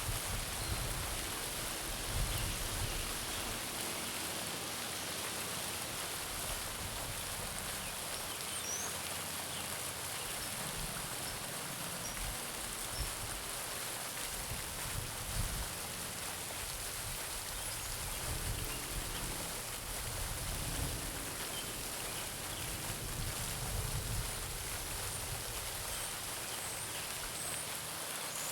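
Garden pond fountain splashing steadily into the water, with a few faint bird chirps in the background.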